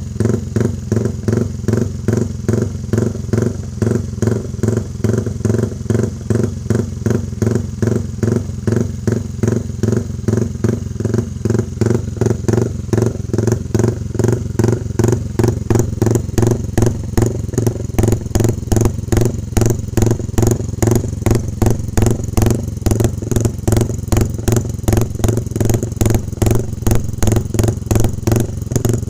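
Yamaha MX King's single-cylinder four-stroke engine idling through a Pekajaman roadrace-style racing exhaust, a steady even rhythm of loud exhaust beats.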